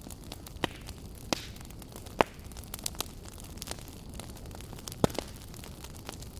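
Wood fire crackling in a fireplace: a steady low rumble of burning with sharp pops and snaps at irregular intervals, the loudest about two seconds in and again about five seconds in.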